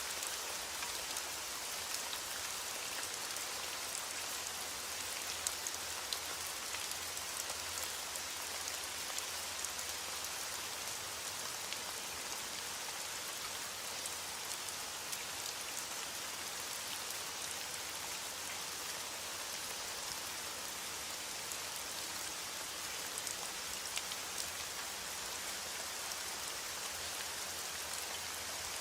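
Steady rain falling on a surface, an even hiss with the crisp ticks of individual drops scattered through it.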